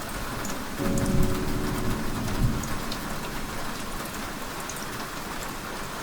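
Steady rain with fine drop ticks, and a low rumble of thunder that rises about a second in and dies away by about three seconds.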